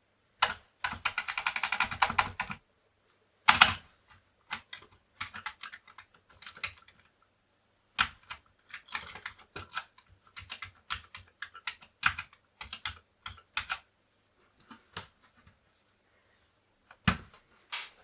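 Keys on a Commodore 64 keyboard being typed in irregular bursts of clacks, with a quick dense run of keystrokes in the first couple of seconds. The keyboard is being tested after a CIA chip swap, for keys that give the wrong input.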